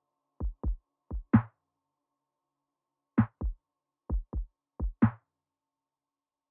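Background electronic music: a sparse drum-machine beat of short, deep kick-drum hits with a few sharper accents, stopping about five seconds in.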